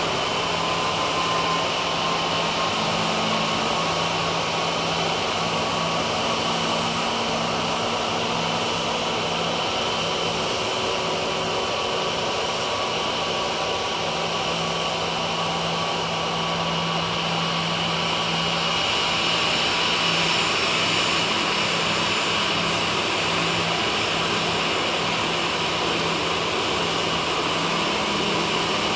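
Jet engines of an Airbus A340-211, its four CFM56 turbofans, running with a steady rush and a high whine that grows a little louder about twenty seconds in.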